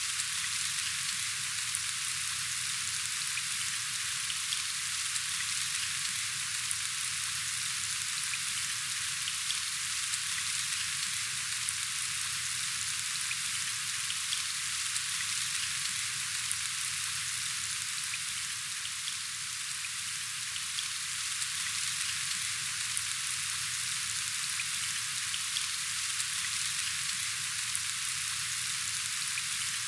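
Steady rain falling, an even hiss with a faint patter of individual drops.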